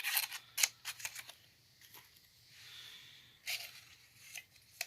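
Paper slips being handled: scattered short rustles and crinkles, with a few sharp clicks about a second in and again past the middle.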